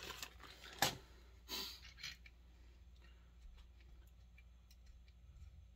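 Small metal parts and tools being handled on a workbench during chainsaw reassembly: a sharp knock about a second in, a short rustle, then faint light clicks.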